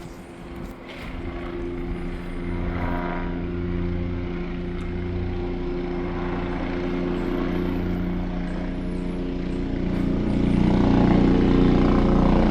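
Police helicopter flying over, a steady rotor and engine drone that grows louder about ten seconds in as it comes closer.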